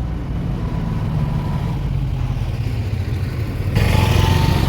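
Roadside traffic: vehicle engines running in a steady low rumble. Near the end it suddenly gets louder, a rushing noise with a faint falling tone, like a vehicle passing close.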